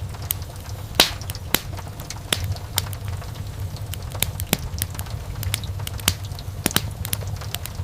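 Wood fire burning in a fireplace: irregular sharp crackles and pops, the loudest about a second in, over a steady low rumble of the flames.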